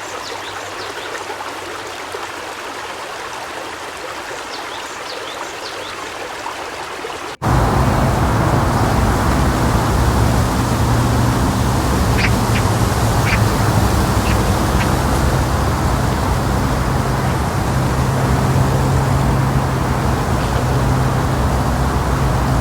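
Flowing water with faint bird chirps. About seven seconds in it cuts abruptly to a louder steady motor hum with open-air noise. Over this, a few duck quacks come about twelve to fifteen seconds in.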